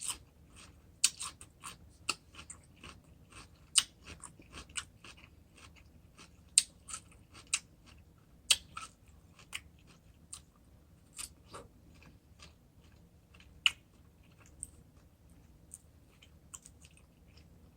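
A person chewing crunchy food close to the microphone: irregular crunches and mouth clicks, a few a second, growing sparser over the last few seconds.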